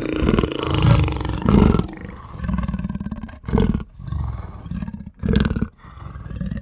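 A farm animal's low, rough calls, repeated in short bursts about half a second to a second long with brief pauses between them.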